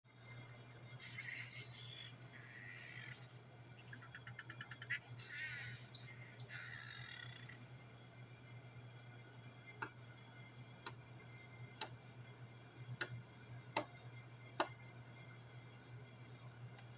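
A small songbird singing a varied, warbling phrase with a rapid trill for about six seconds, then giving six short, sharp single notes about a second apart. A steady low hum runs underneath.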